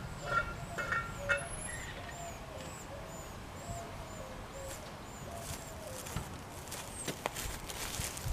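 A bird singing a series of evenly repeated short arched notes, about two or three a second, for the first few seconds. Footsteps on grass near the end.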